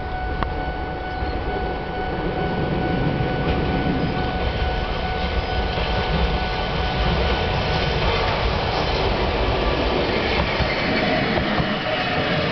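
Eizan Electric Railway train approaching along the track and passing close by, its wheels running on the rails; the running noise grows in the upper range over the last few seconds as the cars draw alongside.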